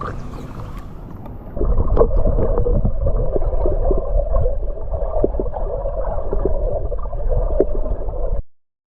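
Muffled underwater sound picked up by a submerged camera: a low rumble with gurgling bubbles and scattered clicks, louder from about a second and a half in. It cuts off abruptly near the end.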